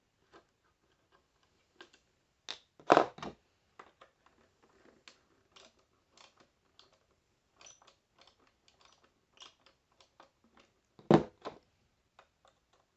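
Irregular small clicks and taps of a screwdriver working Phillips screws out of a hard plastic toy case, with two louder knocks, about three seconds in and near the end, as the case or tools are handled.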